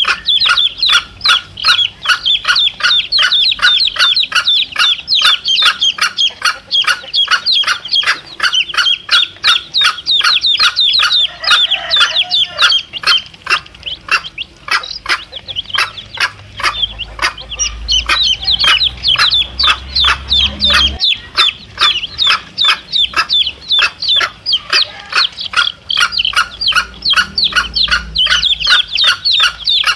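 Domestic chicks peeping nonstop, short high falling cheeps several a second, with a mother hen clucking low now and then. A low rumble sits under it partway through and cuts off suddenly.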